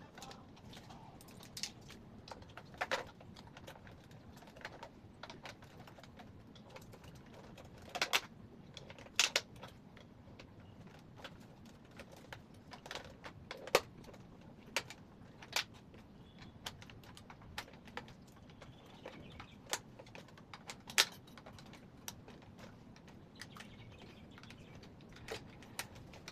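Irregular light clicks and taps of small hard objects being handled, spaced a second or more apart, over a faint room background.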